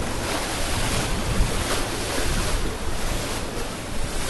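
Fast-flowing floodwater rushing in a steady wash of noise, with wind buffeting the microphone.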